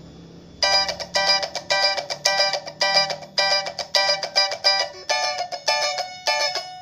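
Cak keroncong, a small ukulele-like keroncong instrument strung with light guitar strings, strummed in a steady repeated rhythm of bright chords, starting about half a second in.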